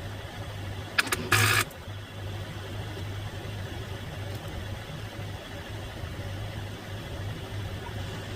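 A steady low hum with two sharp clicks about a second in, then a short, loud, harsh burst: a failed attempt to start a 2007 Ford Transit on a dead battery. The engine does not catch.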